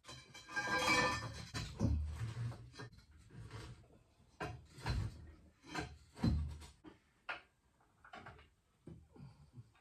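Irregular knocks and clunks of hard objects being handled, with a burst of rattling clatter about a second in.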